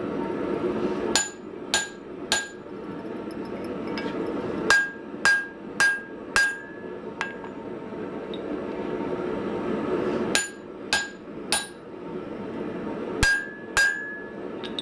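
Hand hammer blows on hot steel and the anvil, about thirteen in short groups of two to four, each leaving a brief metallic ring: a drift being driven through the eye of a small hammer head. A steady roar runs underneath.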